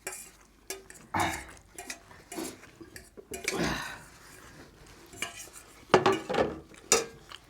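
Spoons and forks clinking and scraping against plates and bowls at the table in a few separate bursts, with sharp clicks near the end.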